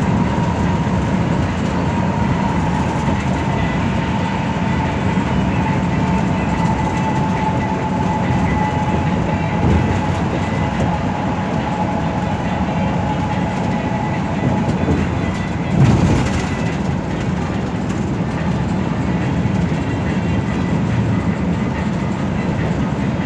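Metropolitan express bus driving along, heard from inside the cabin: a steady rumble of engine and road noise. A faint whine slowly drops in pitch over the first fifteen seconds, and there is a single bump about sixteen seconds in.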